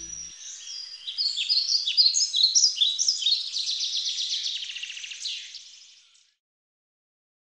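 Birdsong: a small bird's rapid, varied chirps and trills, fading out about six seconds in, then dead silence.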